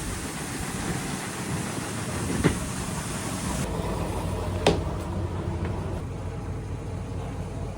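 A train moving at a railway station: a steady rushing noise with two sharp clicks, about two seconds apart. Partway through, the high hiss drops away abruptly.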